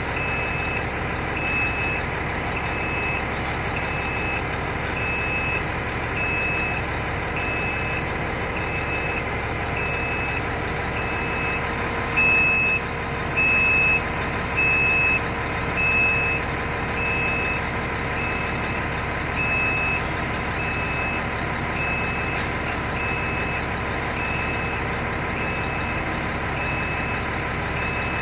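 Electronic beeper sounding a steady, evenly repeated high beep, about one and a half a second, over the steady drone of a running engine. The sound grows louder in several short stretches around the middle.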